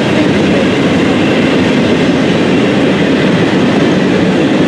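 A train passing close by, its railroad cars rolling steadily over the rails in a loud, even rumble.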